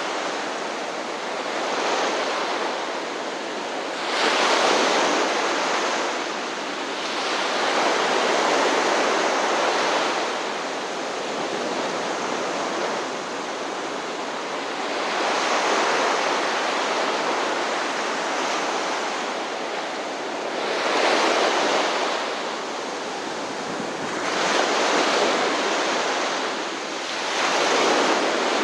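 Ocean surf: waves breaking and washing on a shore in a continuous rush that swells and ebbs every few seconds.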